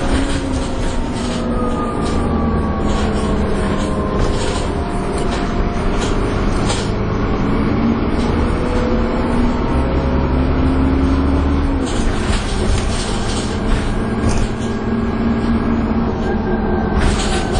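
Dennis Trident 2 double-decker bus engine and transmission running under way, with a whining "hoover" tone over a low thrashing engine note. The pitch climbs and then falls at a gear change about twelve seconds in, with body rattles throughout.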